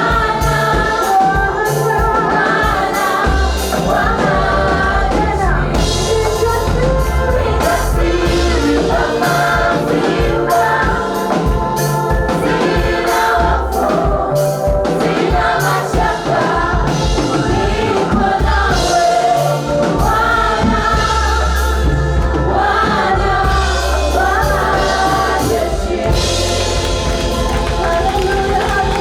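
Gospel choir singing a praise song with instrumental backing and a steady beat.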